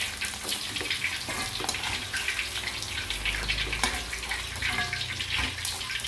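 Chicken liver and gizzard pieces frying in hot oil in a wok, a steady sizzle with many small crackles and pops, stirred with a metal spatula.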